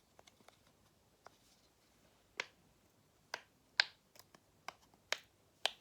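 A scattering of short, sharp clicks and taps at irregular intervals, about eight of them, from small toys being handled.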